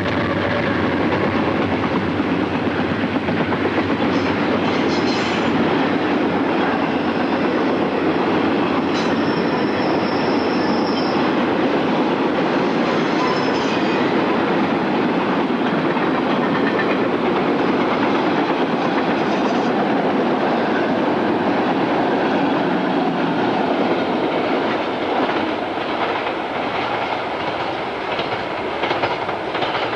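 Railroad cars rolling past, with a steady rumble and wheels clicking over rail joints. A brief high wheel squeal comes about a third of the way in, and the clicking grows more distinct near the end.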